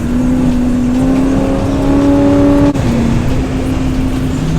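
Muscle car's engine running steadily under way, its pitch creeping up slowly, then a brief dip in loudness about two and a half seconds in and a drop to a lower steady pitch.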